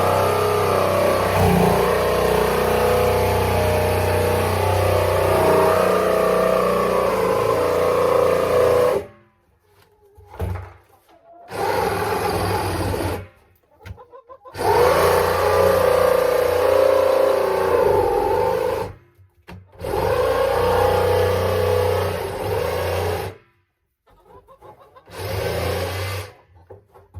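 Power tool cutting an access hole in the side of a plastic water tub, run in five bursts that stop abruptly: a long first run of about nine seconds, then shorter runs with brief pauses between.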